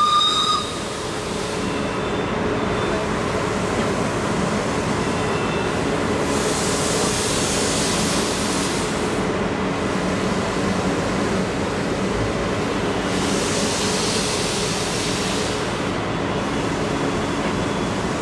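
Passenger train hauled by a WP-class steam locomotive, heard from an open carriage window: steady running noise of the coaches on the rails, with two longer swells of hiss partway through. A high whistle cuts off just after the start.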